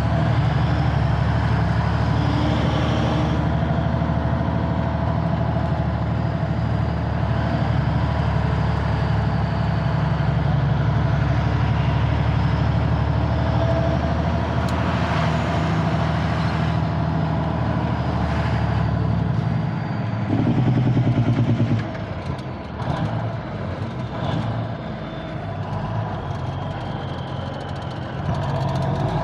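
1985 Freightliner cabover semi truck's diesel engine running with a steady hum. About twenty seconds in the note changes: a brief louder stretch, then the sound becomes quieter and less even.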